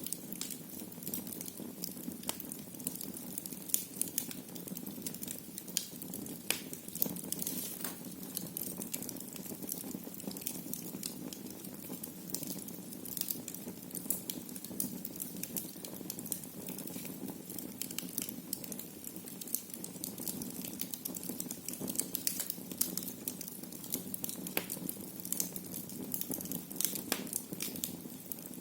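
Fire crackling in a fireplace: irregular sharp pops and snaps, several a second, over a steady low rush of the flames.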